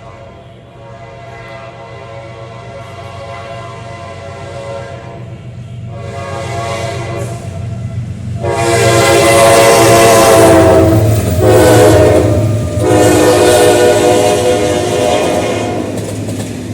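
General Electric diesel locomotive approaching, its engine rumble growing louder, sounding its multi-tone horn: a softer blast about six seconds in, then three loud blasts with short breaks between them.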